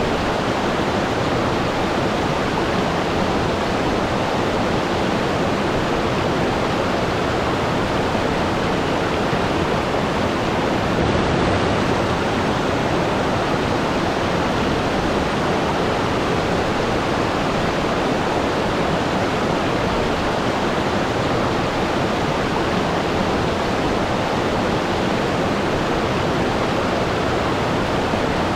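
Waterfall: a steady, even rush of falling water crashing into a pool, with no break or change.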